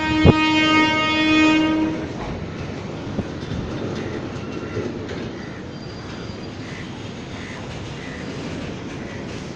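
Freight train horn sounding one steady blast of about two seconds, with a single sharp clank just after it starts. Then comes the steady rumble and clickety-clack of a goods train's wagons rolling slowly over the rails.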